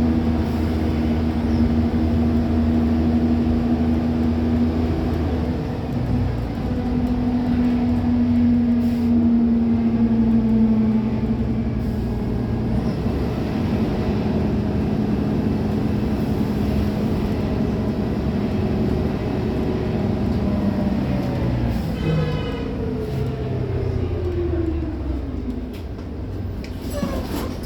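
Diesel engine of a Van Hool AG280 articulated bus running under way, heard from inside the bus. Its note holds steady, shifts a few times, then falls steadily from about 22 seconds in.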